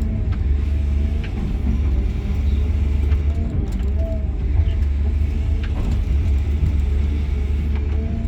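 Cat 323 GC excavator's diesel engine running steadily, heard from inside the cab as a constant low hum. A few faint clicks and several brief squeaks sound over it.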